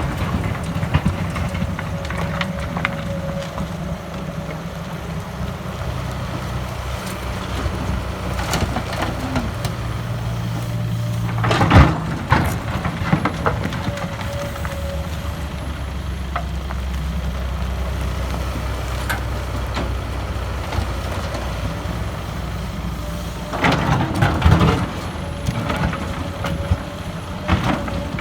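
Hydraulic excavator's diesel engine running under load as it digs and loads laterite soil into a dump truck, its pitch shifting as the boom and bucket work. Heavy knocks come about twelve seconds in and again a few seconds before the end as the load drops into the truck bed.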